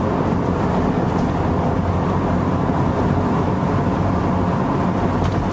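Steady vehicle running noise heard from inside the cabin: an even low rumble of engine and road with no break or change.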